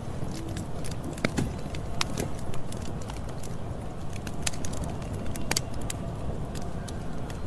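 Campfire burning: wood crackling with irregular sharp pops over a low, steady rumble from the flames.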